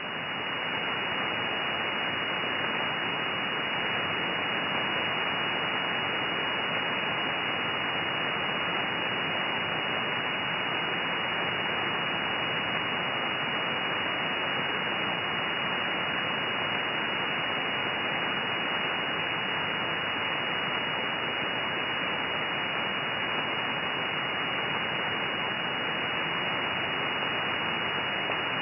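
Shortwave receiver static: steady hiss of the 6.501 MHz upper-sideband marine weather channel with no transmission on it, heard through an SDR. The Coast Guard station has signed off, and only band noise is left. It swells up over the first second, then holds even.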